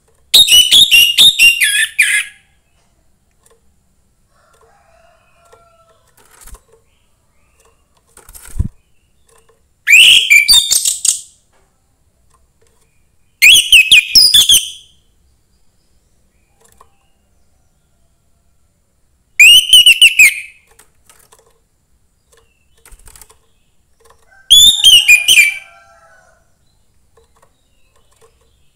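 Young wild-caught orange-headed thrush singing: five short bursts of rapid, high whistled notes, each a second or two long, with pauses of several seconds between them and a few faint soft notes in the gaps.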